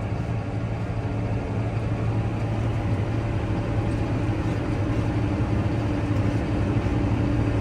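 Vehicle engine running steadily, heard from inside the cab: an even low drone with a constant hum.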